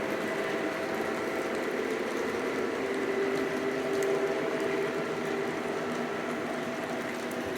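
Lionel Legacy O-gauge Southern E6 diesel model locomotives running on track: a steady mechanical whir and rumble with a few constant tones.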